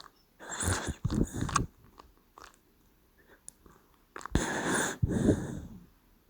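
Sleeping dachshund snoring: two snores in quick succession about half a second in, a quiet gap, then two more from about four seconds in.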